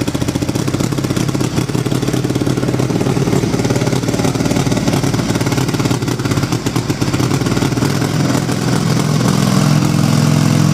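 1927 Indian Scout 45's side-valve V-twin engine running just after being started, somewhat unevenly, then settling into a steadier, slightly louder idle near the end.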